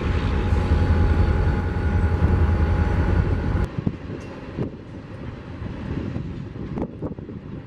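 Freight train of tank cars running with a loud, deep, steady rumble. About three and a half seconds in, it cuts to a quieter passing tank-car train, its wheels clicking now and then over rail joints.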